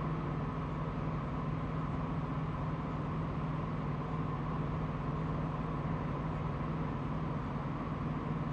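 Heavy truck engine running steadily, a continuous low hum with no breaks.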